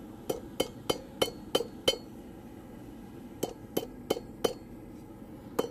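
Blacksmith's hammer striking hot steel on an anvil with light, ringing clinks: a run of six blows about three a second, a short pause, then four more and another near the end, tidying the rough end of a forged coat hook.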